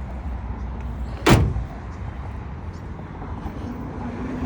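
A single loud slam about a second in, the sharp bang of a part of the pickup truck being shut, over a steady low rumble.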